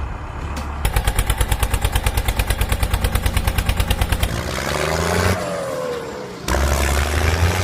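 Engine-like sound: a fast, even chugging rattle of about ten beats a second for a few seconds, then a tone that rises and falls like revving, and a steady low drone near the end.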